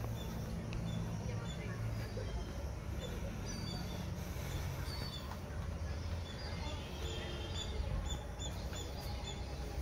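Birds chirping in short, repeated high chirps, several a second, over a steady low rumble.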